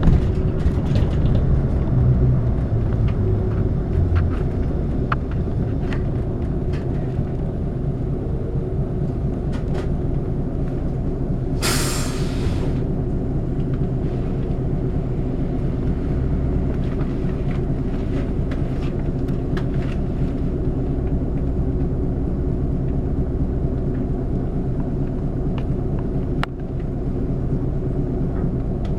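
City bus driving, its engine and road noise heard from inside the cabin as a steady low rumble. Near the middle comes a sharp hiss of air about a second long, typical of the bus's air brakes releasing.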